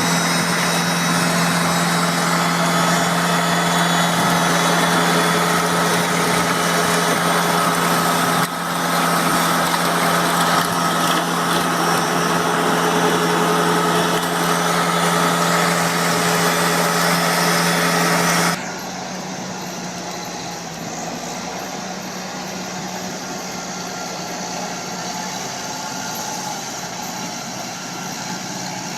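Engines of heavy farm machinery running steadily, with a steady low hum. About two-thirds of the way through, the sound cuts abruptly to a quieter, duller machine engine.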